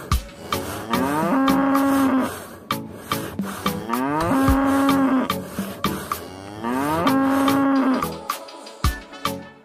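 Cow moo sound effect, the same call three times about every three seconds, each rising and then held on one long tone, over music with a clicking beat.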